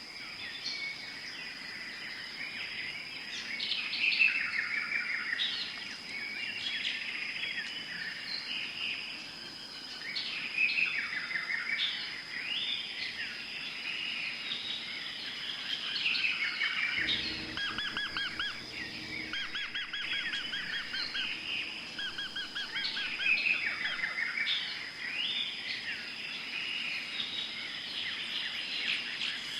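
Many forest birds calling and singing over one another, with short chirps, sweeping whistles and fast trills, over a steady high-pitched tone.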